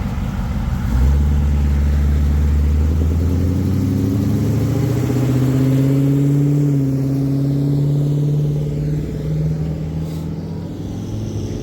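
Car engine pulling away: a loud, deep engine note comes in sharply about a second in, holds with a slight rise in pitch, then fades as the car drives off.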